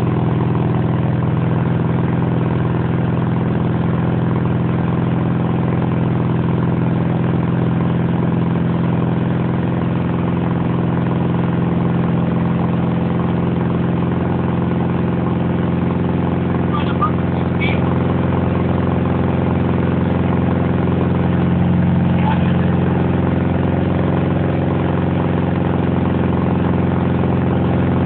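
40-valve V8 engine of a home-built buggy idling steadily, swelling slightly for a couple of seconds about three-quarters of the way through.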